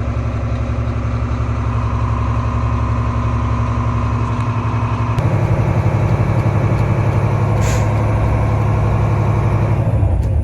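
Semi truck's diesel engine idling, heard from inside the cab, while its air compressor builds brake air pressure up toward a full system. The engine note shifts about five seconds in, and a short hiss comes a little later.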